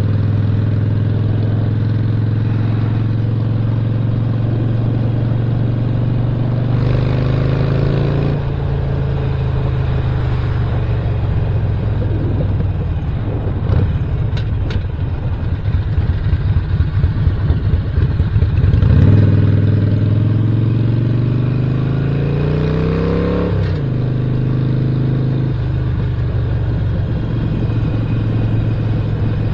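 Stage 1 upgraded 2017 Harley-Davidson Roadster's 1200 cc V-twin engine running loud and steady. Its note rises under acceleration about a quarter of the way in, and again from a little past the middle until it drops off sharply about four-fifths of the way through, then settles back to a steady run.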